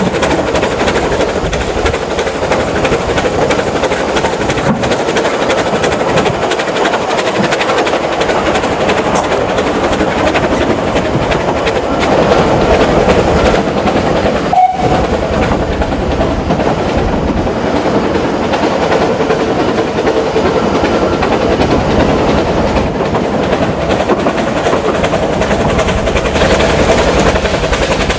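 Narrow-gauge steam train hauled by 2-6-2T tank locomotive No. 8, running steadily with a fast, unbroken beat of exhaust and wheel noise, and one brief sharp sound about halfway through.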